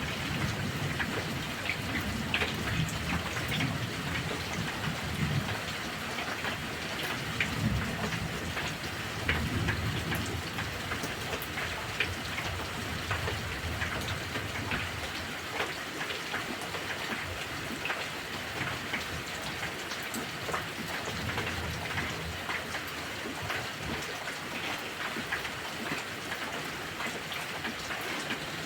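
Heavy rain falling steadily, with many individual drops pattering on a surface, and low thunder rumbling underneath through the first half before dying away about halfway through.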